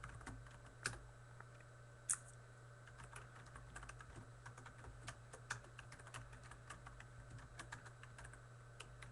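Faint typing on a computer keyboard: irregular key clicks with a few louder taps, over a low steady hum.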